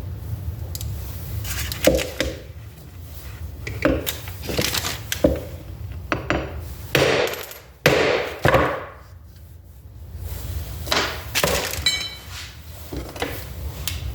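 Irregular knocks and taps, a second or two apart and loudest near the middle: a part being tapped further into a Toyota 4A-FE distributor housing to seat it about a millimetre deeper.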